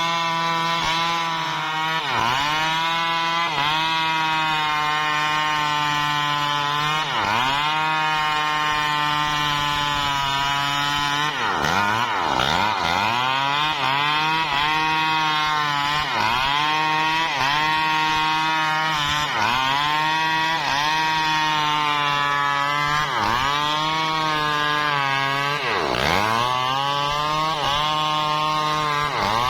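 Petrol chainsaw running at high revs while cutting wood. Its engine pitch dips sharply and recovers every two to three seconds, with a longer drop about twelve seconds in.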